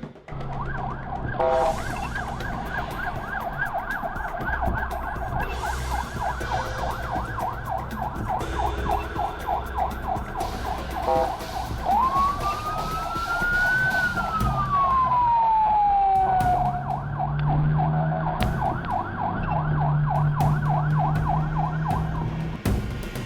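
Emergency vehicle siren sounding a rapid yelp. About halfway through it switches to one slow wail, rising and then falling, before going back to the yelp. A vehicle engine hums low underneath.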